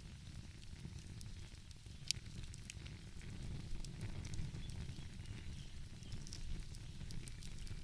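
Wood fire crackling, with scattered sharp pops, the loudest about two seconds in, over a steady low rumble.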